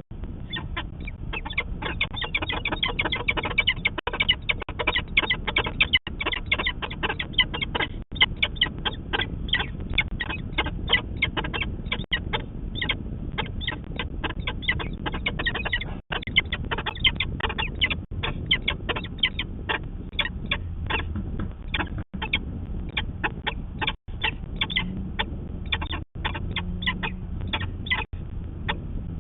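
Peregrine falcon cacking: a fast series of short, harsh 'kak-kak-kak' calls at about three to four a second, kept up without a break, the alarm call of a falcon reacting to an intruding raptor.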